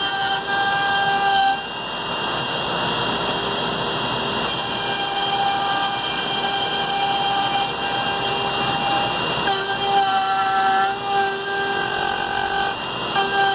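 3D-printed CNC machine running, its motors giving a steady multi-pitched whine. The whine stops about a second and a half in, leaving a rough hiss, then comes back in stop-start stretches after about nine and a half seconds.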